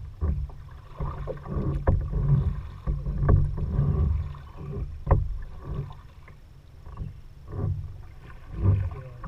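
Kayak paddling sounds: low swells of water movement around the boat, with a few sharp knocks.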